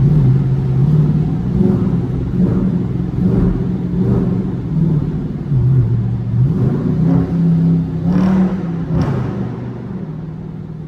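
Dodge Scat Pack's 6.4-litre HEMI V8 accelerating hard through a tunnel. The engine note climbs, drops back as it shifts and climbs again, with two sharp cracks near the end before it eases off.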